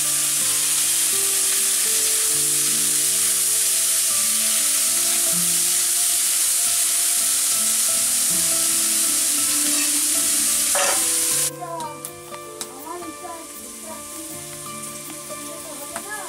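Food frying in a metal wok (kadai): a loud sizzle that drops abruptly about eleven seconds in to a quieter sizzle, with the spatula scraping and clicking against the pan as it is stirred.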